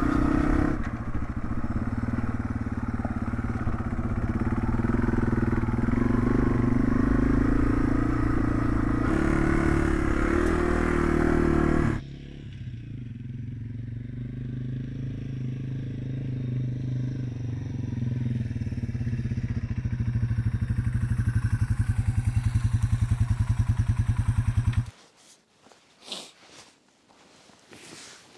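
2018 Yamaha TW200's air-cooled single-cylinder four-stroke engine running as the bike is ridden. It is louder for the first twelve seconds, then suddenly quieter and slowly building again, until it cuts off abruptly about 25 seconds in, leaving a few faint clicks.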